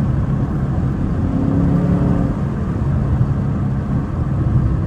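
A 2024 Mustang GT's 5.0-litre V8, heard from inside the cabin, accelerating through a short full-throttle pull. The engine breathes through high-flow Steeda air filters with the carbon traps removed from the intake.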